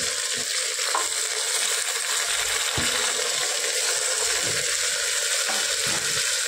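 Onions and freshly added tomatoes frying in hot mustard oil in an open pressure cooker: a steady sizzle, with a few soft knocks.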